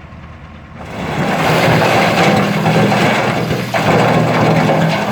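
Diesel engine of a construction machine working on a road repair. It rises sharply to full power a little under a second in and keeps running loud and steady, with a dense rattling noise over the engine note.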